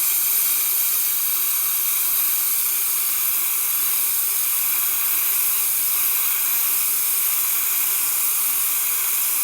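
Tormek SG-250 grinding wheel on a T8 wet sharpener turning while an 80-grit diamond dresser scrapes across it, a steady hiss over the low hum of the motor. The dressing conditions the stone to about 240 grit.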